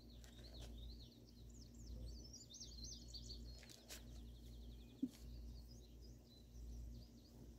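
Faint birdsong: songbirds giving varied short whistled notes and a quick trill, over a steady low rumble of wind. A single light knock comes about five seconds in.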